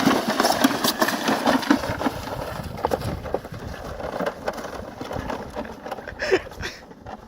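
A sled sliding downhill, a steady rough scraping with many knocks and rattles that grows quieter towards the end.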